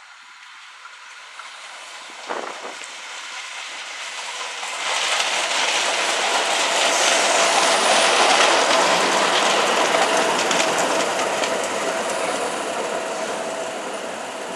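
Tyne and Wear Metro train (Metrocar) approaching and running past, wheels clattering on the rails with a steady whine. It swells to its loudest about halfway, then slowly fades as it runs on into the platform. A brief knock about two seconds in.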